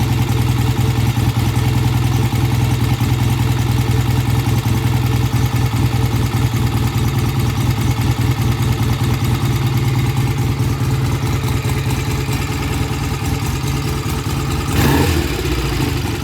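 BSA A65 Lightning's 650 cc parallel-twin engine idling steadily while its idle speed is set after a pilot-jet clean and mixture adjustment. The idle eases down a little in the second half, and near the end a short blip of throttle shows it coming off idle cleanly.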